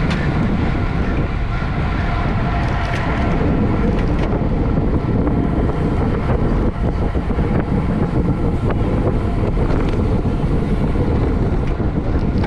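Steady wind rushing over the microphone of a camera carried on a racing bicycle at speed.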